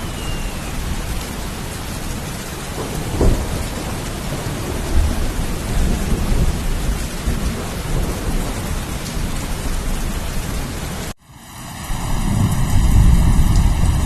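Steady rain with low thunder rumbles. About eleven seconds in, the sound cuts out for an instant and a new rain recording starts, with a deep rumble of thunder building near the end.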